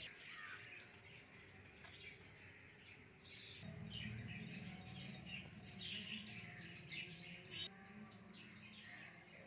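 Faint chirping of small birds, many short calls throughout; a low steady hum comes in about three and a half seconds in.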